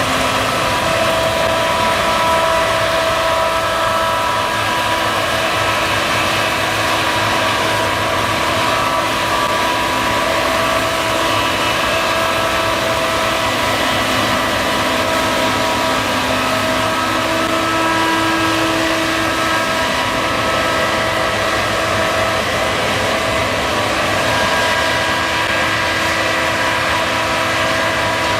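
Case combine harvester running steadily at work harvesting, a dense mechanical drone with several steady whining tones.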